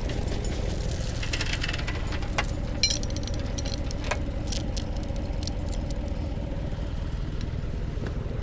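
A vehicle engine idling steadily, with scattered light metallic clinks and rattles over it during the first half.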